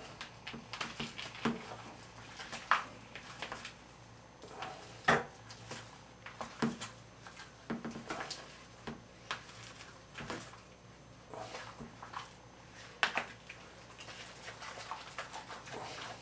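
A spoon stirring a thick chicken salad in a bowl: irregular light clinks and knocks against the bowl, with soft squelching of the mix between them.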